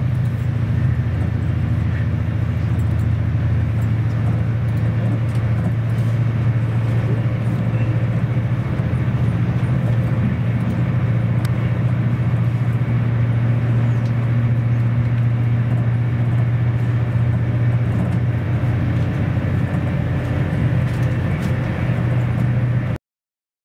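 Steady low rumble of a moving train heard from inside the carriage, cutting off abruptly near the end.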